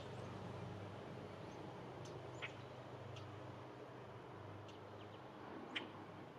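A few faint, brief high bird chirps over a quiet, breezy background, the clearest about two and a half seconds in and again near the end.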